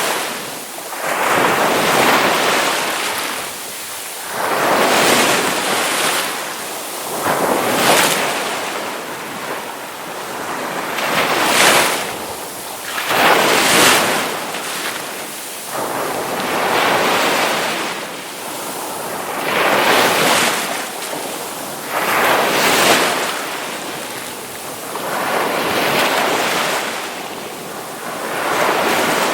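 Ocean waves breaking on the shore, one after another, the surf rising and falling in a surge every two to three seconds.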